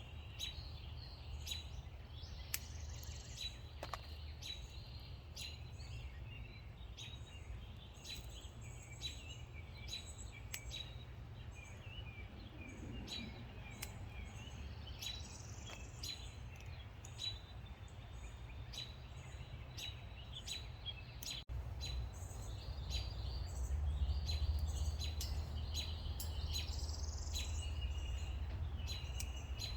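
Songbirds chirping and calling over and over, with a steady low rumble underneath that grows louder about two-thirds of the way through.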